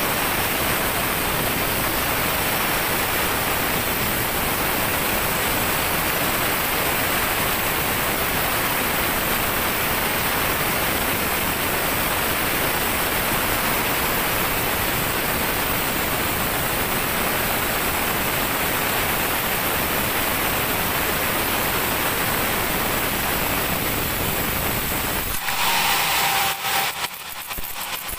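Sawmill band saw running with a loud, steady, even noise as it works a teak log. It cuts off abruptly near the end into a lighter, irregular clatter.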